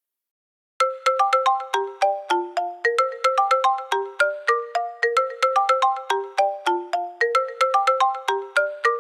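Phone alarm tone: a quick marimba-like melody of struck notes, about four or five a second, repeating its phrase. It starts about a second in.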